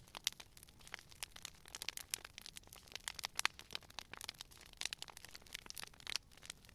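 Wood fire burning: a steady run of irregular pops and crackles, several a second, from the burning logs.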